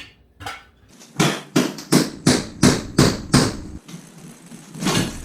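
A hammer (the "persuader") striking about eight times in quick succession, roughly three blows a second, as the transmission is forced into place. Near the end there is another knock with a short vocal sound.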